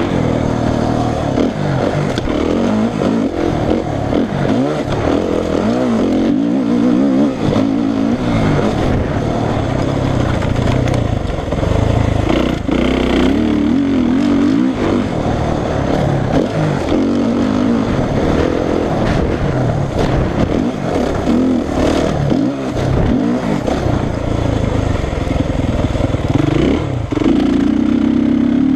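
Suzuki RM-Z450 motocross bike's single-cylinder four-stroke engine being ridden hard, the revs rising and falling over and over. Near the end the engine note holds steadier.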